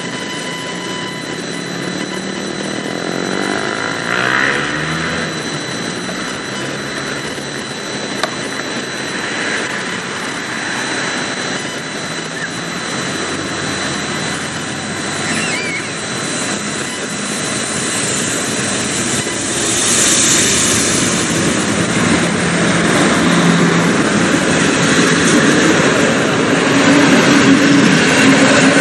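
A diesel train pulling slowly into the station: its engine running and its wheels rolling on the rails, growing louder as the coaches draw alongside.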